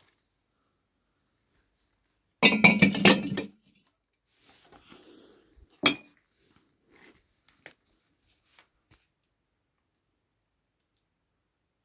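Hard objects clattering and clinking for about a second, then a single sharp clink a few seconds later, followed by a few faint ticks.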